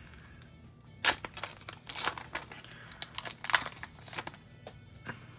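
Pokémon booster pack's foil wrapper being torn open and crinkled by hand: a run of sharp crackling rustles from about a second in until past four seconds.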